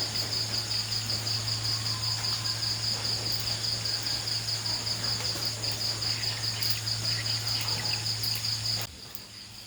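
Insects trilling: a loud, steady high-pitched trill pulsing about ten times a second over a steady low hum. Both drop away abruptly near the end.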